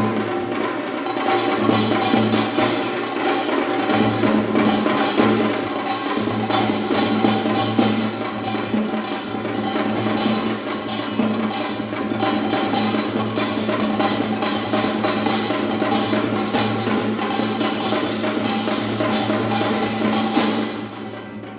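Korean traditional percussion ensemble (janggu, kkwaenggwari, buk, jing) playing a fast, dense rhythm over steady ringing tones. The playing drops away sharply near the end.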